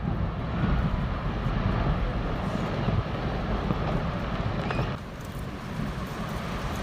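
Low rumbling and rushing from a chunk of glacier ice collapsing into the water and the wave it sends surging, heard through a handheld camera's microphone; it eases off a little about five seconds in.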